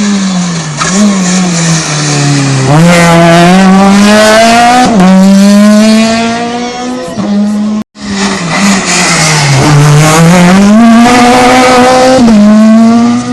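Rally car engine winding down in pitch as the car slows into a hairpin, then revving up hard as it accelerates out, with a gear change partway. After an abrupt cut, a second rally car does the same: engine falling as it brakes, then rising as it accelerates away. Both are loud.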